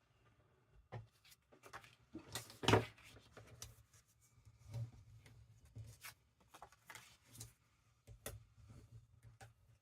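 Paper being handled and worked on a craft table: scattered rustles, light taps and small knocks of tools set down, the loudest knock a little under three seconds in.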